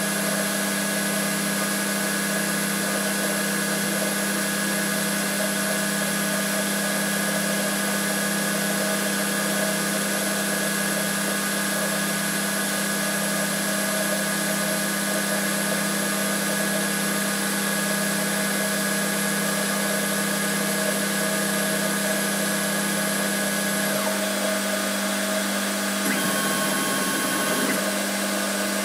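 Holzmann ED 400FD lathe, converted to CNC, running with a steady motor hum, its tone shifting slightly near the end with a brief wavering sound.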